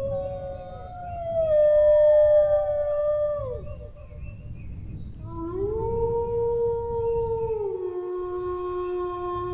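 Dogs howling in long, drawn-out notes. In the first half two voices overlap and slide down in pitch to end. After a short pause a single howl rises, then drops to a lower note and holds, over a low background rumble.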